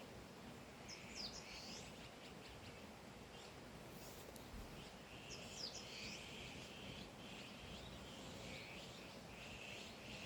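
Faint wild birdsong over a quiet hiss of outdoor background. Two short, high sweeping calls come about a second in and again about five and a half seconds in, with softer repeated chirping through the second half.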